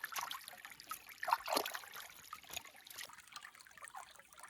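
Water trickling and splashing in uneven bursts, busier in the first couple of seconds and sparser toward the end.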